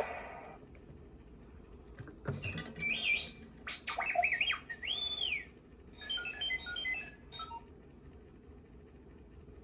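R2-D2 beeps and whistles played through the small speaker of a Funko Pop Lights & Sound R2-D2 figure. From about two seconds in there are warbling chirps, a rising-and-falling whistle, and then a quick run of stepped beeps, ending about seven and a half seconds in.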